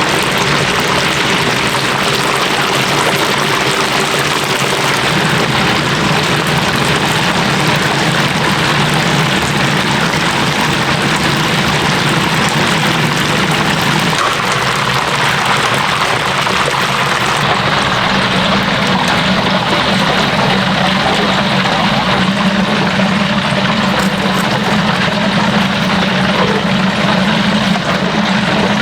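Steady hiss of pork deep-frying in hot oil over a constant low kitchen drone. The sound changes about halfway through.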